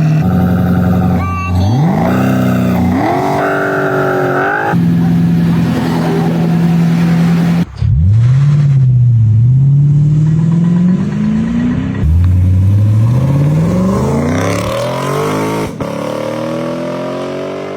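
Toyota V8 exhaust note: the engine holds a steady idle, then is revved several times. Its pitch climbs and falls back, with abrupt breaks about 8 and 12 seconds in and a long rising rev near the end.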